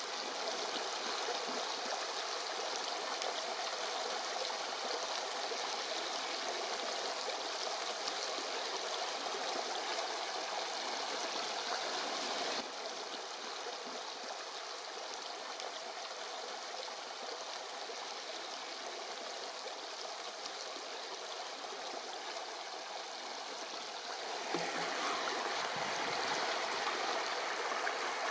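Steady rush of fast-flowing water from the Orkhon River. It drops a step in level about halfway through and rises again near the end.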